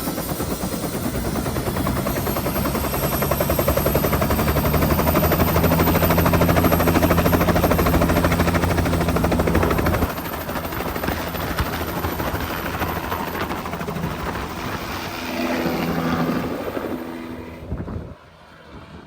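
Helicopter rotor chop and engine running close by, loudest over the first half, then dropping to a lower level and fading away near the end.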